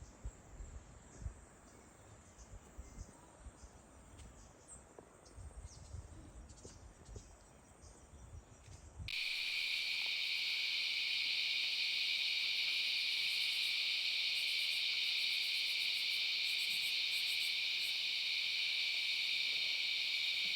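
Faint, irregular low knocks and rumbles, then about nine seconds in a sudden switch to a steady, high-pitched chorus of insects.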